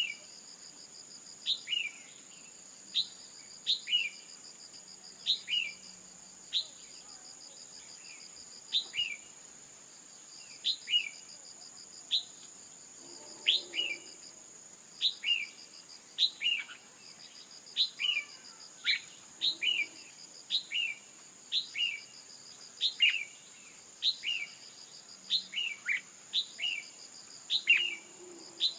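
Red-whiskered bulbul calls: short, sharp downslurred chirps repeated about once a second, often in quick pairs, the female call used to set a male singing. A steady high insect trill runs underneath.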